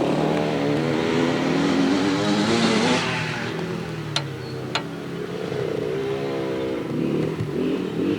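Dirt bike engines running and revving, their pitch rising and falling, loudest in the first three seconds. Two sharp clicks come a little past halfway.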